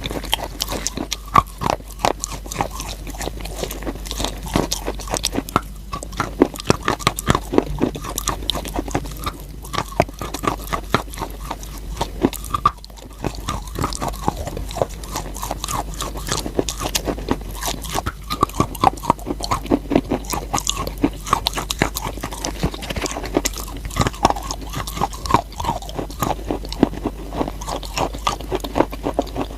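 Close-miked biting and chewing of chalk: continuous dense, crisp crackling crunches, with brief pauses a few times.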